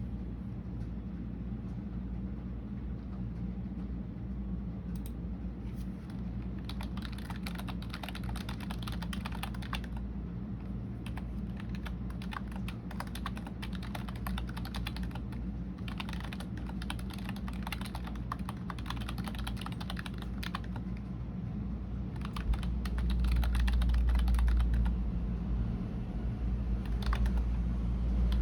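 Computer keyboard typing in irregular bursts of key clicks with short pauses, over a steady low hum that swells for a few seconds near the end.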